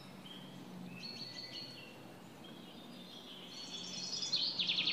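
Birds chirping faintly, with a fast trill of rapidly repeated high notes starting about three and a half seconds in, over faint background noise.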